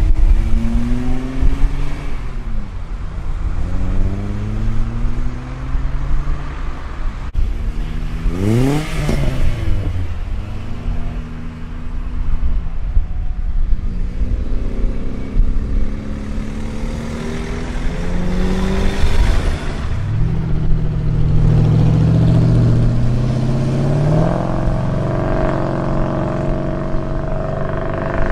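Car engines and exhausts accelerating away one after another, each pitch climbing and then dropping as it shifts gear. There is a sharp rev about nine seconds in, and a lower engine climbs steadily near the end.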